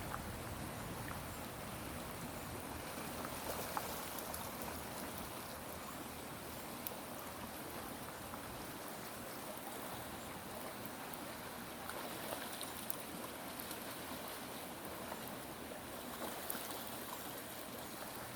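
Running water: a steady, even rush with a few faint clicks.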